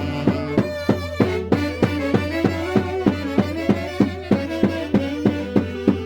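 Santiago dance music from the Mantaro Valley, an instrumental band playing a violin-led melody over a steady drumbeat of about three beats a second.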